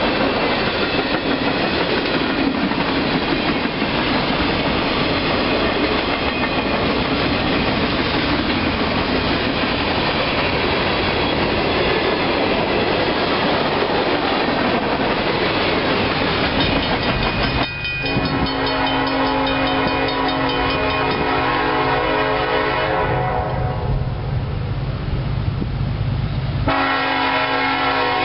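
Freight cars rolling past with steady wheel-on-rail noise. About two-thirds of the way through, this gives way abruptly to a locomotive horn holding a long chord, which breaks off briefly and sounds again near the end.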